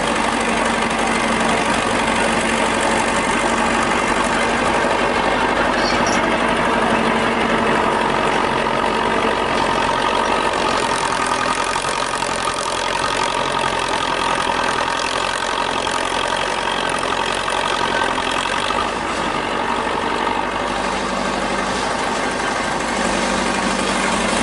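Old tractor engine idling steadily.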